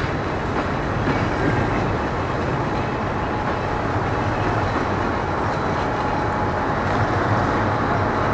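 Diesel shunting locomotive and passenger coaches rolling slowly over a level crossing. The engine and wheels make a steady rumble that stays even throughout.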